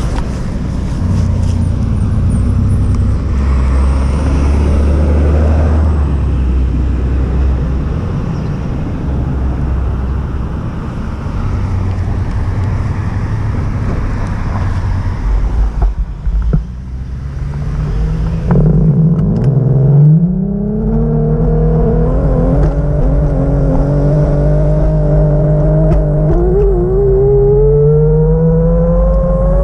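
Vehicle engine rumbling with road and wind noise, then accelerating from a little past the middle, its pitch rising steadily to the end.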